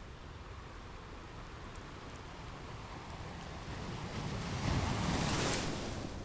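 Ocean surf: a wave builds and breaks, loudest about five seconds in, then ebbs back into the steady wash of the sea. Faint scattered crackles of a fireplace sit on top.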